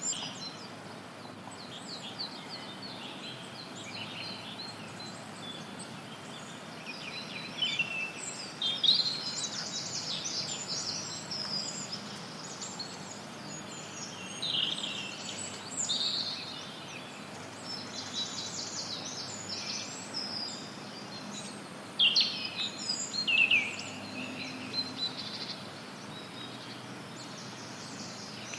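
Songbirds calling and singing in short chirps and trills over a steady hiss of white noise, the calls coming in clusters with brief lulls between.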